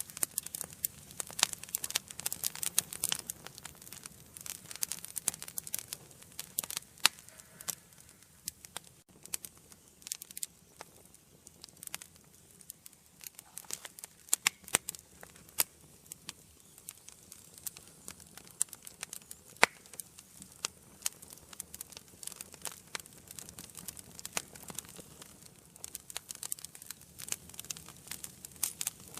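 Wood fire burning in a fireplace, crackling and popping irregularly with sharp snaps over a soft low rumble of flame. The pops come thickest in the first few seconds and again near the end, with a quieter patch in between.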